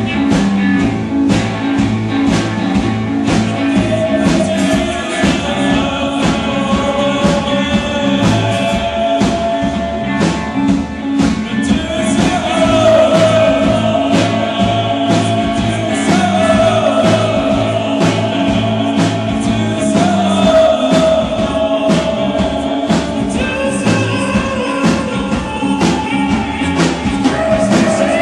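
A rock band playing live: drum kit keeping a steady beat under bass and guitar, with long held sung notes over the top.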